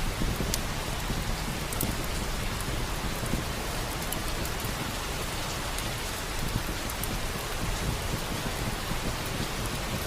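Steady rain falling, an even hiss with a low rumble underneath and scattered sharp ticks.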